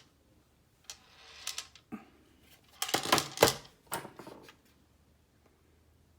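A magazine being handled, giving a few scattered clicks and rattles, the loudest a little over three seconds in.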